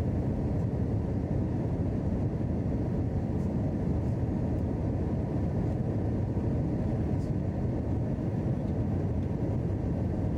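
Steady cabin noise inside an Airbus A321: an even rumble of engines and airflow, strongest in the low range and unchanging in level.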